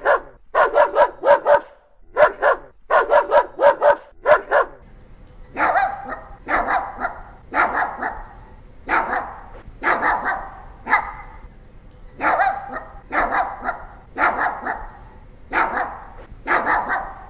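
Dog barking: quick bursts of three or four barks in a row for the first few seconds, then single barks about one a second from about five seconds in.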